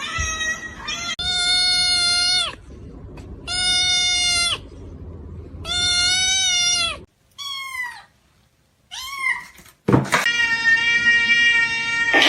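A cat meowing loudly over and over: three drawn-out, steady meows of about a second each, two shorter meows that fall in pitch, then a long held meow near the end.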